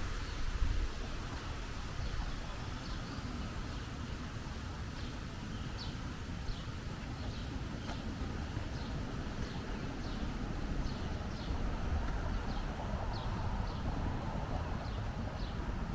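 A bird calling with short, high, falling chirps repeated about every half to three-quarters of a second, starting a few seconds in. A steady low background rumble runs underneath.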